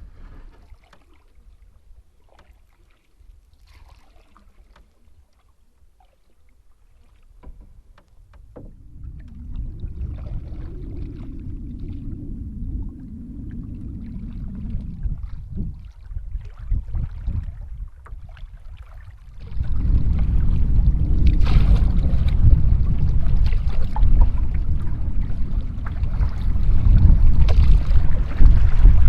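Canoe being paddled: paddle strokes with water splashing and dripping, faint at first. Wind rumbles on the microphone from about a third of the way in and grows much louder about two-thirds in.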